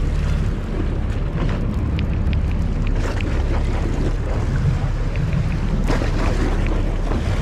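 A boat's engine running with a steady low rumble, wind on the microphone, and a few faint clicks and knocks about two to three seconds in and again near six seconds.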